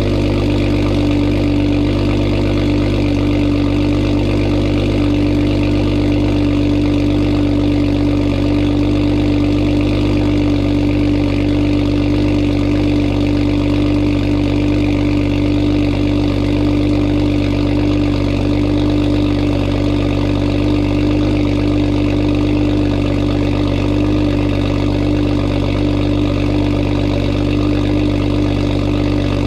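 2021 Toyota Supra's engine idling steadily through a muffler-delete exhaust with an aftermarket downpipe, giving a loud, unmuffled exhaust note at a constant pitch with no revving.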